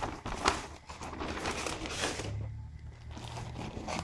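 Crinkling and rustling of packaging being handled, irregular, with a couple of sharper, louder crackles near the start.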